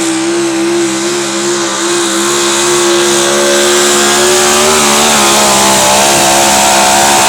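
Engine of a 2001 Dodge Dakota pulling truck held at high revs under full load as it drags the pulling sled, its pitch staying high and steady with a brief wavering about halfway through.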